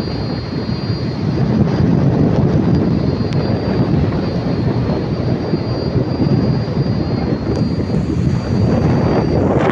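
Strong wind buffeting the microphone: a steady low rumble that rises and falls slightly, with no engine pitch standing out.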